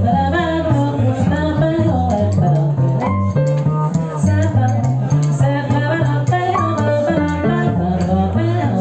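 A small live jazz group with trumpet playing a swing tune, with a bass line stepping note by note under a busy melody line.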